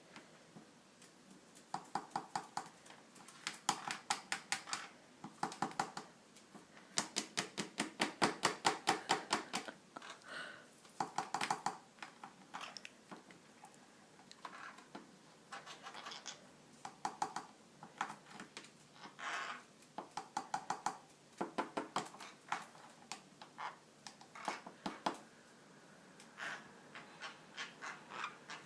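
Green-cheeked conure scratching and picking at a fridge door, in repeated bursts of rapid sharp clicking taps.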